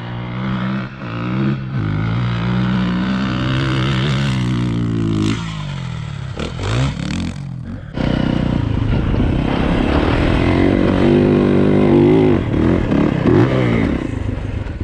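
Yamaha YZ450F dirt bike's single-cylinder four-stroke engine running hard under throttle in sand. It eases off and its pitch glides about the middle, then it pulls louder again from about eight seconds in.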